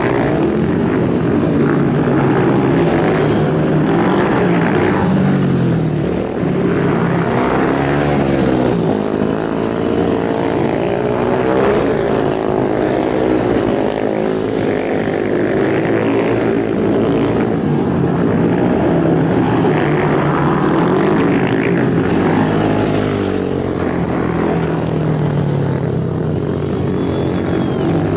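Several superbike engines revving hard together, their pitch climbing and falling again and again as they accelerate and shift gears.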